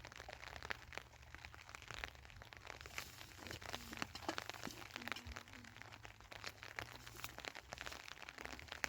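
Rain pattering on the tent's plastic sheeting: a dense, irregular run of small taps and crackles.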